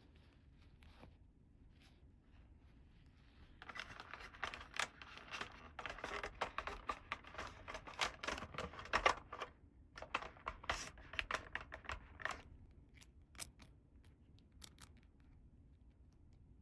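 Toy packaging being handled and opened by hand: two spells of rapid scratchy, crackly noise full of small clicks, the first about four seconds in, followed by a few light clicks.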